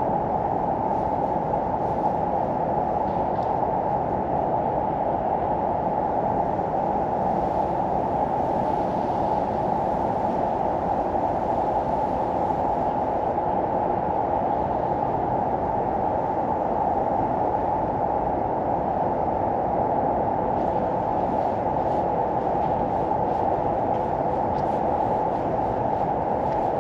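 Steady, even rushing noise, strongest in the low and middle range, unchanging throughout.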